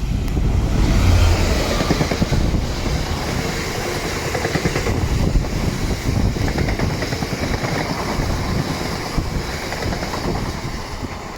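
A train passing close by: a loud, steady rush of wheels on rails, which falls away sharply at the very end.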